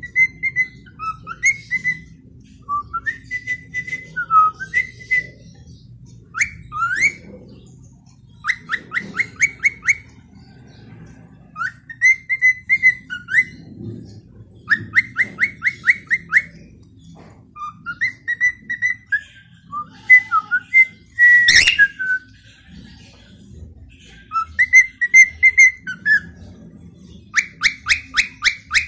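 Cockatiel whistling in repeated phrases: clear held notes, gliding notes and runs of quick repeated notes, with one louder, harsher call about two-thirds of the way through.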